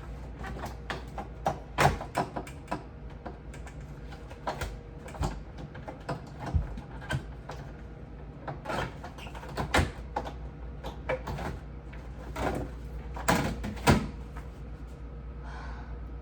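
Refrigerator parts such as shelves and drawers being handled and moved, giving irregular clacks and knocks, a few of them sharper. A steady low hum runs underneath.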